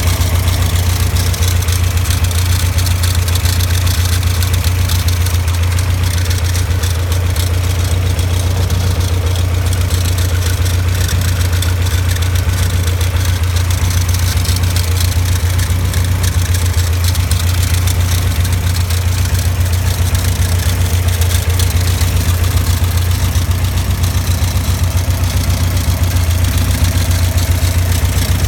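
Caterham Super Seven's engine idling steadily, with a rattle from the alternator: the sign of a worn alternator bearing.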